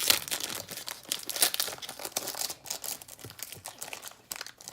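Foil trading-card pack being torn open and crinkled by hand, a run of irregular crackles and rips that thins out near the end.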